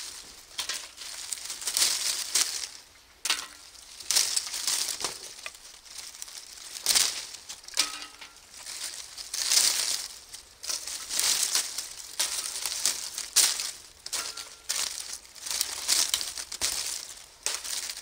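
Dry leaves crinkling and crunching as handfuls are gathered and dropped into a metal fire-pit bowl, in repeated irregular bursts.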